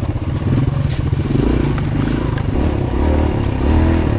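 Dirt bike engine running at low speed, its revs rising and falling with the throttle.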